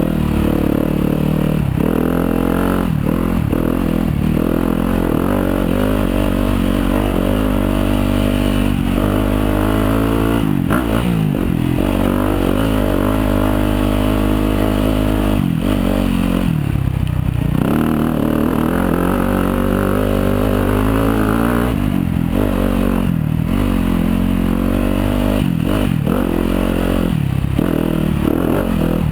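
Yamaha YZ250FX dirt bike's 250 cc four-stroke single-cylinder engine running under way on a trail, its pitch rising and falling as the throttle opens and closes, with a brief drop off the throttle about 17 seconds in.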